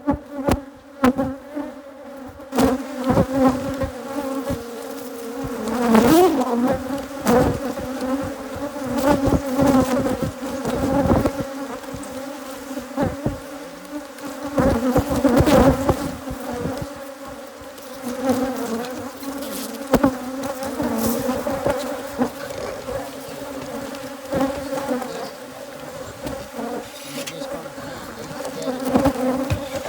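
Dense buzzing of a hive of Africanized hybrid honey bees, a steady loud drone with many bees in the air, broken by frequent short knocks and bumps.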